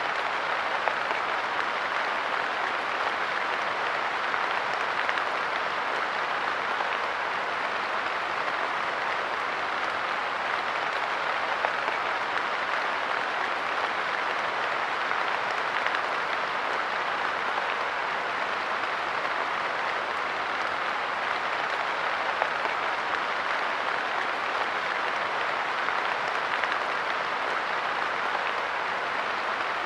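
Steady light rain pattering on a park bench, a dense even hiss of drops with scattered sharper ticks.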